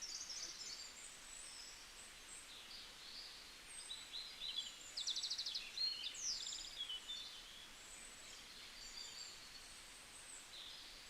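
Faint high-pitched bird chirps and short trills, busiest around the middle, over a low background hiss.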